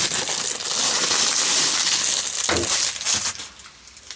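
Packaging being crumpled and rustled loudly, with a dull knock about two and a half seconds in; the rustling stops a little over three seconds in.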